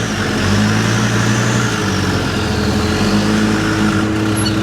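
Truck engine running steadily with a low hum, broad mechanical noise and a faint wavering high-pitched whine.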